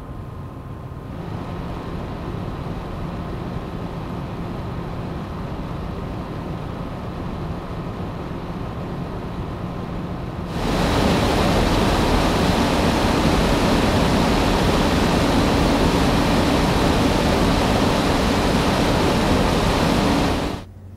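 NZXT Kraken X61 liquid CPU cooler's radiator fans running with a steady airy whoosh. The fans step up slightly about a second in and become much louder about halfway through at a higher fan speed. The noise drops sharply just before the end.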